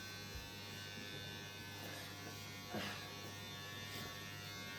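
Electric hair clippers running with a steady buzz during a home haircut.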